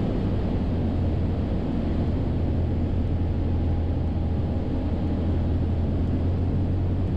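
Cessna 172's piston engine and propeller droning steadily in flight, heard inside the cockpit.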